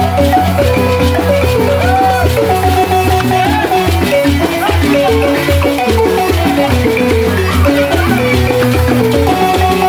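Senufo balafon music: wooden-keyed xylophones playing quick, repeating melodic runs over a steady low pulse.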